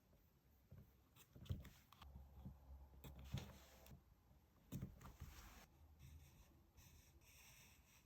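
Faint handling of paper and stationery: a few light taps and short papery rustles.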